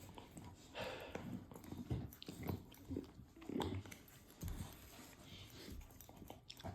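Rottweiler gnawing on a bone: faint, irregular crunches and clicks of teeth on bone.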